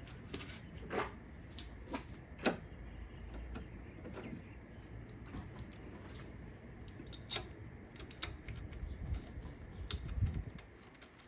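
Scattered light clicks and taps of small hand tools and engine parts being handled, with a soft thump near the end.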